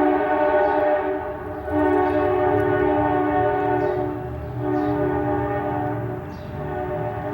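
Diesel locomotive air horn sounding its chord in long blasts, with short breaks between them, over the rumble of the passing locomotives.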